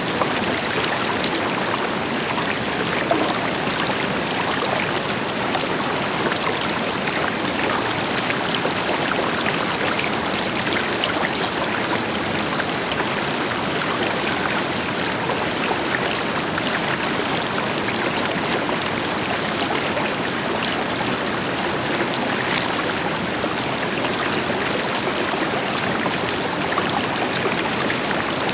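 Mountain river flowing, with a waterfall rushing in the background: a steady, even wash of water noise with small splashes throughout.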